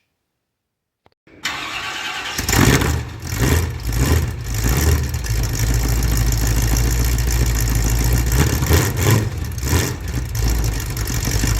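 An engine starts and runs with a steady low rumble, growing louder a second after it starts, then cuts off suddenly near the end.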